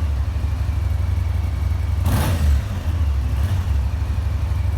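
Kymco AK 550 maxi-scooter's parallel-twin engine running at idle, with a short blip of the throttle about two seconds in.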